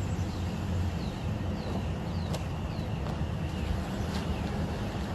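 A bird giving a series of short, high, falling chirps, about one every half second to second, over a steady low rumble.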